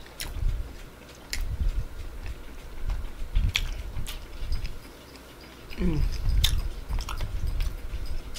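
Close-miked mouth-closed chewing of a mouthful of Big Mac burger: uneven soft thumps with scattered wet clicks, pausing briefly about five seconds in. About six seconds in comes a short hum that falls in pitch.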